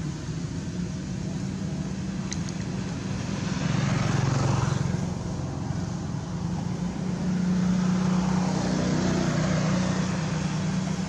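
A motor vehicle's engine running, a steady low hum that grows louder about four seconds in and again for a few seconds near the end.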